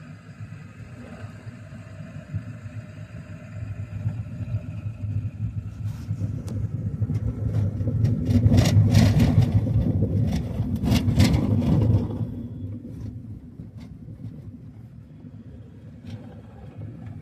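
Road vehicle noise, a low rumble that swells for several seconds to a loud peak with rough, gusty crackle, then drops off about twelve seconds in.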